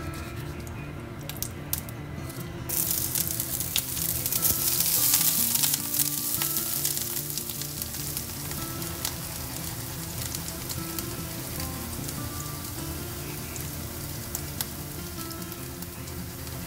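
Grated ginger sizzling as it falls into hot oil in a frying pan. The sizzle starts about three seconds in, is loudest a couple of seconds later, then settles to a steady sizzle.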